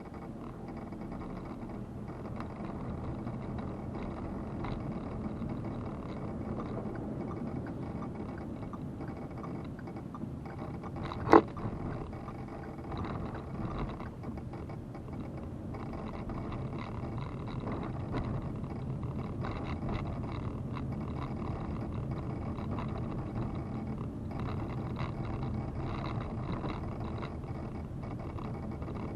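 Steady low rumbling road and engine noise of a car driving, with a single sharp click about eleven seconds in.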